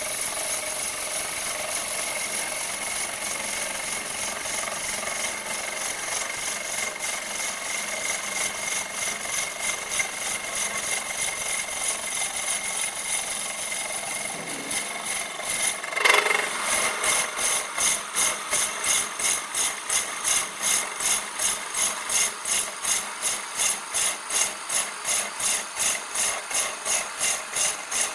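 Tool cutting wood spinning on a wood lathe: a steady scraping hiss, a sharp knock about halfway through, then the cutting comes in regular pulses, about two or three a second.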